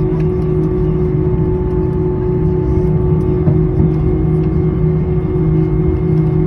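Steady jet engine and airflow noise inside an Airbus A321-200's cabin: an even rumble with a constant low hum.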